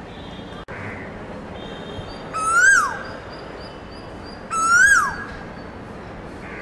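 A bird calling twice, about two seconds apart, each call a short whistle that rises and then drops sharply, with faint higher peeps between the calls.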